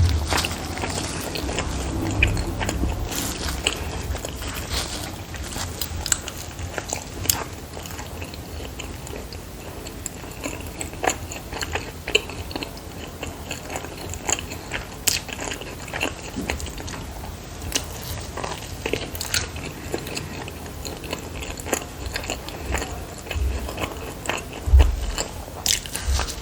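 Close-miked eating of filled dumplings: biting and chewing with many small wet mouth clicks. A couple of dull low thumps come about two seconds in and near the end.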